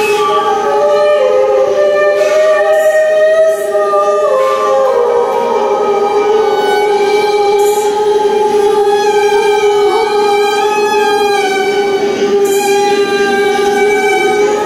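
Slow droning music with a violin: one low note is held steady throughout, while a second line slides down in small steps over the first few seconds.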